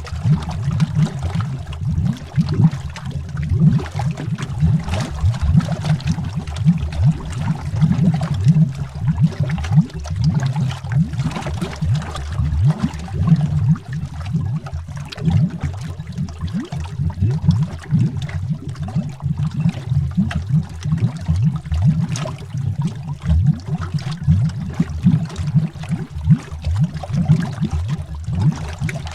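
Underwater bubbles rising and popping in a steady, dense stream, heard as continual low gurgling and burbling with frequent short pops.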